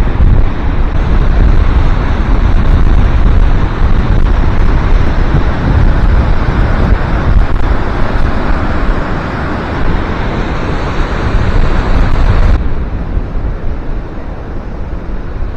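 Heavy wind buffeting the microphone over a steady rushing roar, likely water in the gorge. About three-quarters of the way through, the hiss suddenly turns duller.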